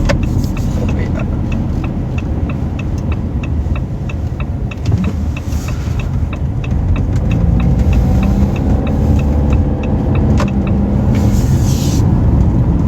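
Car turn signal ticking steadily, about two to three ticks a second, over the low rumble of the car's engine and road noise. The ticking stops about ten seconds in, while the engine has grown louder from about seven seconds on as the car moves off.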